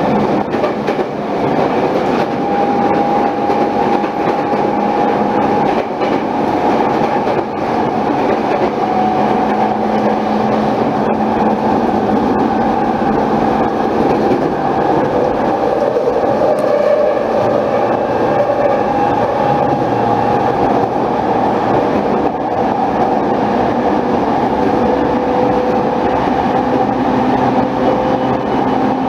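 Saikyo Line commuter train running at speed on an elevated viaduct, heard from inside the carriage: a steady rumble of wheels on rails with a few faint humming tones that slowly shift in pitch.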